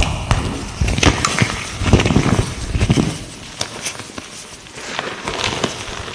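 Light green gym chalk being crushed close to the microphone: crisp crunching and crackling, heaviest in the first three seconds and softer after that.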